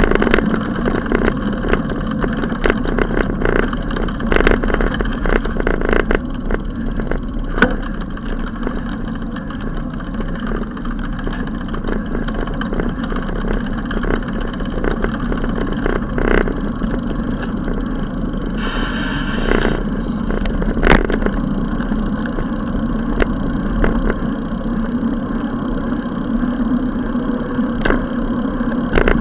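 Steady road and wind noise of a moving bicycle ride, with frequent small knocks and rattles, and a short pitched sound about two-thirds of the way through.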